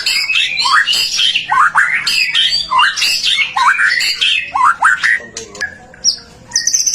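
White-rumped shama (murai batu) singing a loud, varied song of quick sweeping whistled notes. It drops off briefly about five seconds in, then breaks into a high, rapid trill near the end.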